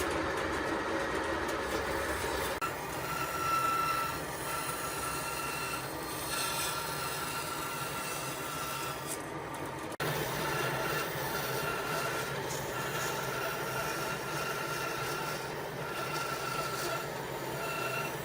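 Workshop machine noise: a rumbling hiss with a high whine that cuts in and out every second or two, the sound changing abruptly twice.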